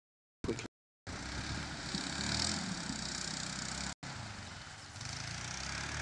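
ATV engine running steadily under a hiss. The sound is silent for the first second apart from a brief blip, and it cuts out for an instant partway through.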